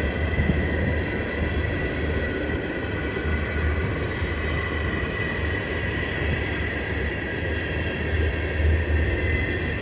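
Freight train cars rolling past: a steady low rumble of wheels on rail, with a continuous high whine running over it.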